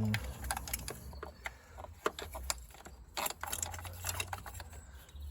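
Irregular light clicks, taps and scrapes of a small sensor pipe being worked back into place under a car, the pipe knocking against the parts around it.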